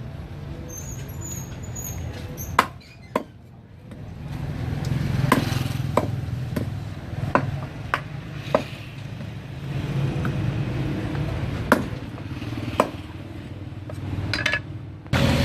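Sharp knocks of a knife on a cutting board, about ten, scattered and irregular, over a steady low rumble.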